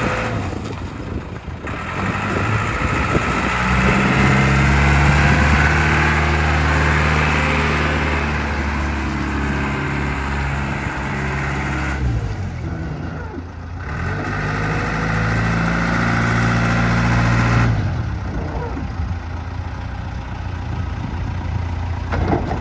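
Caterpillar 426 loader backhoe's diesel engine running, revved up and held for several seconds, dropping back, then revved up again and falling back to a lower speed near the end.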